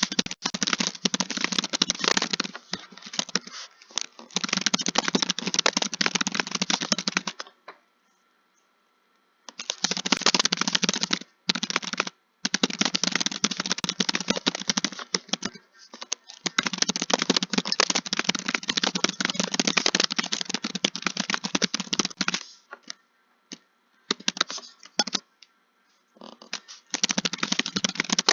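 Typing on a computer keyboard: fast, dense runs of key clicks lasting several seconds each, broken by short pauses, with a longer pause about eight seconds in.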